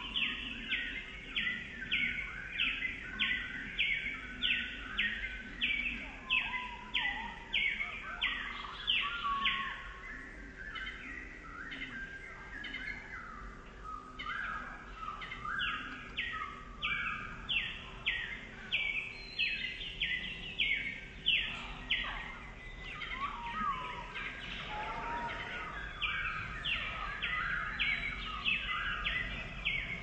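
A songbird singing a long series of short, high repeated notes, about two a second, pausing briefly about a third of the way through and again about two-thirds of the way through.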